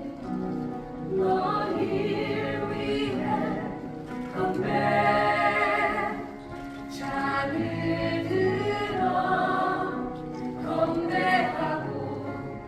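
Musical-theatre cast singing together over live band accompaniment, several voices at once, in phrases that swell and ease off every few seconds.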